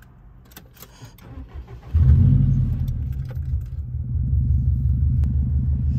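A few light clicks, then the 2004 Subaru WRX's turbocharged flat-four engine cranks and catches about two seconds in, flaring up before it settles into a steady, evenly pulsing idle as the car is restarted.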